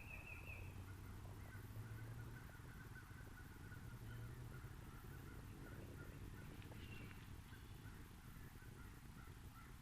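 Quiet outdoor ambience with faint, distant bird calls repeating in a short series, over a faint low hum.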